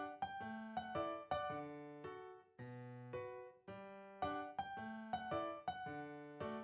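Background music: a gentle solo piano melody with bass notes, each note struck and left to fade.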